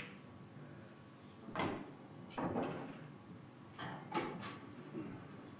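Pool balls knocking on the table, about five sharp clacks and knocks spread over a few seconds.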